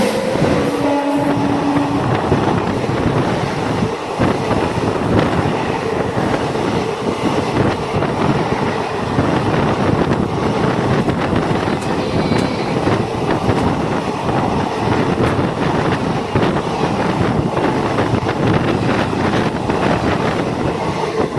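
Express train passing close by at high speed: a long, steady rush and rattle of coaches and the clatter of wheels on the rails, with the last notes of its horn in the first couple of seconds.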